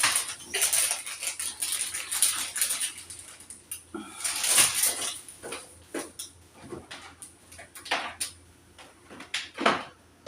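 Household objects being handled and sorted by hand: irregular clatters, knocks and rustles as things are picked up, moved and set down.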